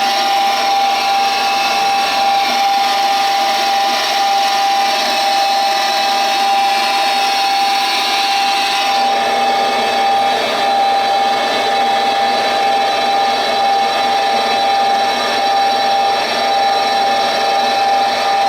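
York 90+ gas furnace running: a steady electric motor hum with one strong high tone and a rushing of air, the rushing growing fuller about nine seconds in.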